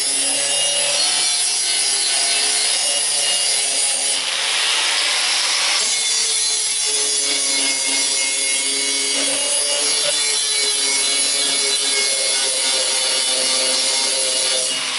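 Electric grinder running continuously against galvanized steel angle, grinding the coating off the ends to prepare them for welding. The motor's whine holds steady under a harsh grinding rasp that changes in tone a few times as the pressure shifts, and the tool shuts off at the end.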